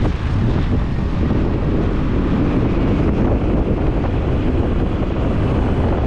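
Steady rush of wind buffeting the microphone on a moving motorbike, heaviest in the low end, with no breaks.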